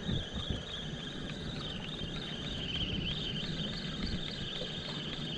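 Fishing reel's drag buzzing as a hooked fish pulls line off, a high wavering whine, over low wind and water noise.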